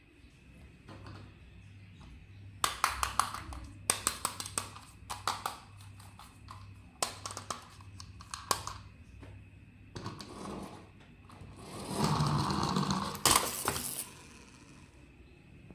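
Small hard plastic toy parts clicking and rattling as they are handled, in several short clusters. Around twelve seconds in there is a louder rustling scrape, ending in a sharp click.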